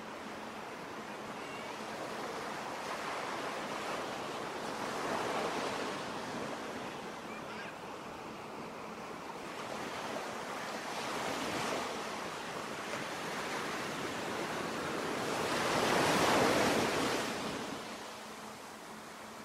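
Ocean waves breaking and washing in, a steady hiss that swells three times, about five to six seconds apart. The last surge, near the end, is the loudest.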